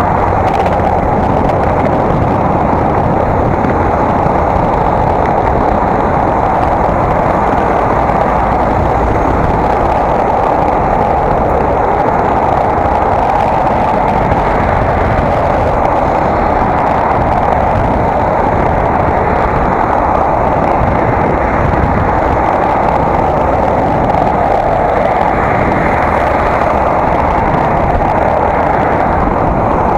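Steady, loud rushing wind and road noise on an action camera's microphone during a bicycle ride, unchanging throughout.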